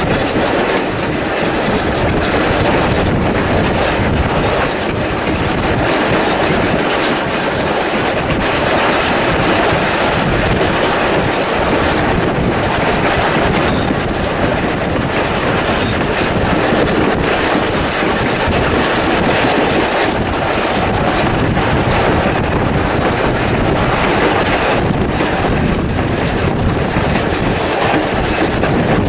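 Wooden passenger carriages of a steam-hauled train rolling along at speed, the wheels clicking over rail joints under a steady loud rumble and rush of running noise, heard from an open carriage window.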